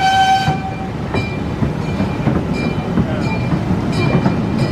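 Zoo train rolling along its track: a steady rumble with occasional rail clicks. A held horn note with several overtones sounds for about the first second, then stops.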